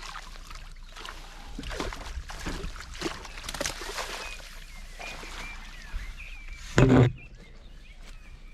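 Scattered rustling, knocking and splashing of water while an angler plays a hooked fish on a pole. There is one loud, deep thump about seven seconds in, and birds chirp faintly.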